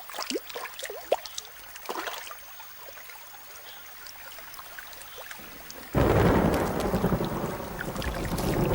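Tropical forest downpour starting suddenly about six seconds in: heavy, steady rain with a low rumble of thunder. Before it, only faint scattered ticks and chirps.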